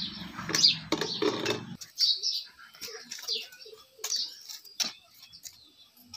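Small birds chirping repeatedly in short high calls, with a few sharp clicks and a low hum that stops about two seconds in.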